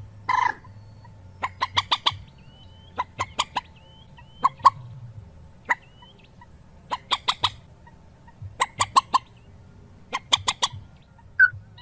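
A rail (mandar) calling: short sharp notes in quick groups of four or five, the groups repeating every second or so, with a few faint short whistles between them.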